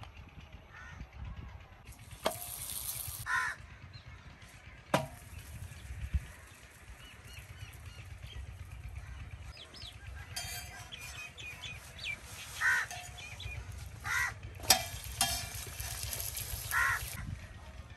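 Paratha frying on a large flat iron tawa, a hissing sizzle that comes and goes, loudest in the second half, with a few sharp clicks of metal tongs against the tawa. Crows caw several times.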